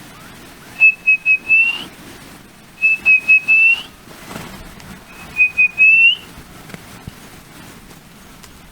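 Whistled call to bring in an Equatorial Antpitta, repeated three times: each phrase is three short notes on one high pitch and then a longer note that slides upward.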